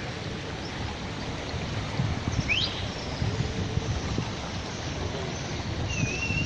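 Steady rush of a flowing river. A bird calls twice over it: a quick rising chirp about two and a half seconds in, then a short wavering whistle near the end.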